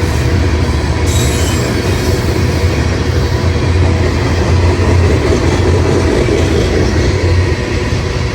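A train passing close by, its steel wheels rumbling steadily on the rails, with faint high-pitched wheel squeal for a moment about a second in.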